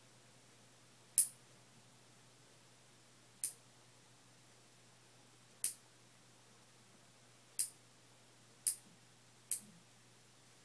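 Fingernail clippers snipping nails: six sharp clicks, one to two seconds apart and quicker near the end.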